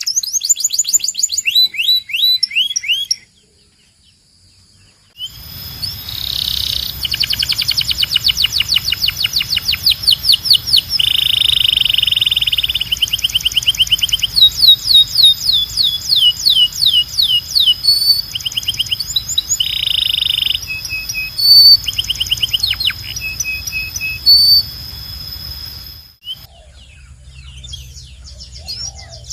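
Belgian canary singing: fast rolling trills and runs of rapid rising notes, with a pause of a couple of seconds after about three seconds, then song running on until a few seconds before the end, when it drops away.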